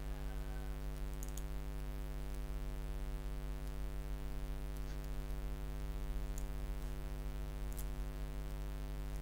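Steady electrical hum with many overtones, with a few faint clicks scattered through it.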